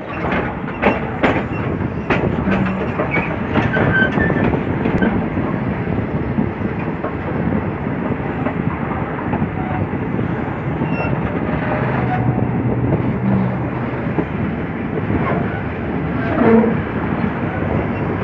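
Passenger train of the State Railway of Thailand running over the rails, heard from an open window on board: a steady rumble of wheels on track, with sharp clicks over rail joints and points, most of them in the first few seconds.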